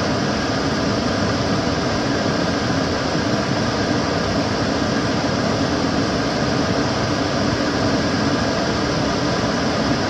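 Kitchen cooker hood extractor fan running steadily: an even rush of air with a low hum underneath.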